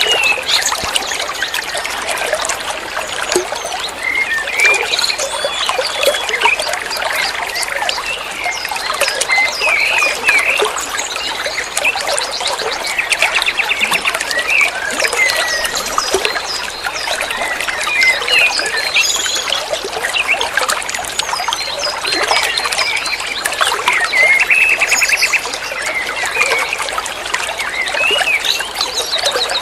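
Water trickling and splashing in a steady stream, with many small birds chirping and giving rapid trills over it throughout.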